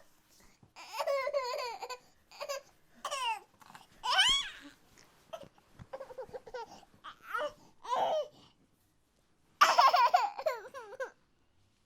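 A high-pitched, child-like voice babbling and laughing in short bursts with pauses between them.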